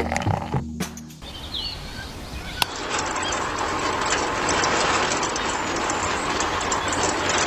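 Background music cuts off, followed by a brief bird chirp, then a steady even rushing outdoor noise.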